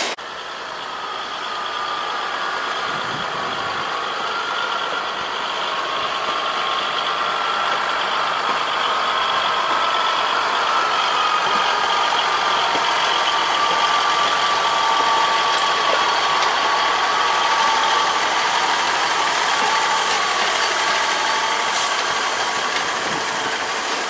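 Diesel train engine running steadily, with a whine that wavers slightly in pitch; it grows louder over the first half.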